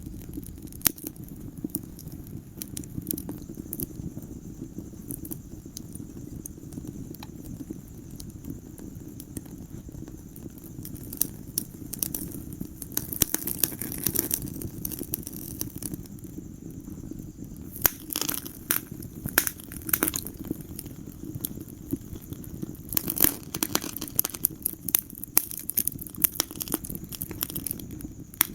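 Wood fire crackling in a fireplace: a steady low rush of burning flames under frequent sharp pops and snaps, which come more thickly in the second half.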